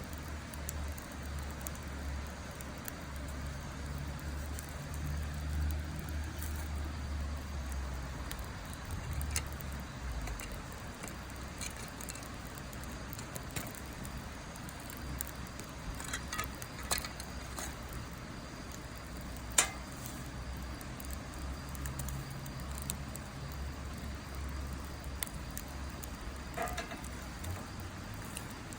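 Wood fire in a fire pit crackling, with scattered small snaps and a single sharp pop about two-thirds of the way through, over a steady low rumble.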